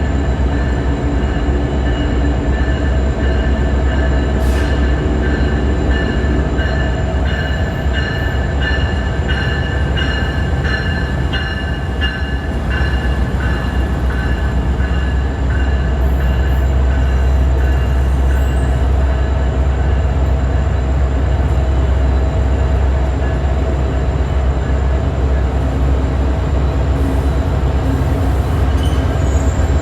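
Amtrak train's diesel locomotive running with a steady, loud low rumble. In the middle comes a run of regular clicks, like wheels passing over rail joints.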